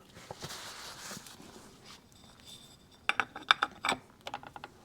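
Handling noise from fitting motorcycle clutch parts: a soft rustle, then a quick run of small clicks and taps from about three seconds in as the pieces are set in place.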